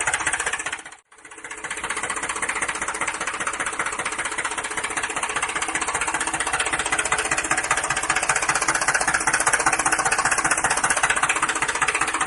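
A small engine-like motor running steadily with a rapid knocking rhythm. It cuts out briefly about a second in, then resumes.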